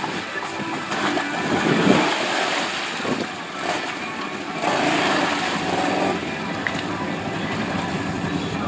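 ATV engine running under throttle while riding a muddy trail, with louder surges about two seconds in and again around five seconds in.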